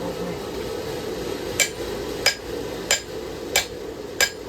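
A hand hammer striking hot steel on an anvil, forging a knife blade. Five evenly paced, ringing blows start about a third of the way in, over a steady low hum.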